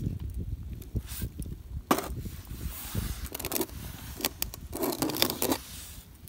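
Irregular scraping and rustling of something being handled, in several bursts, over a steady low rumble.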